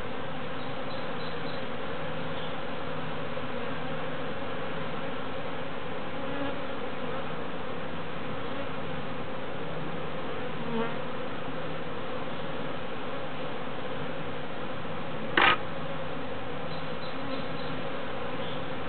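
A swarm of honeybees buzzing steadily. A short sharp knock about fifteen seconds in.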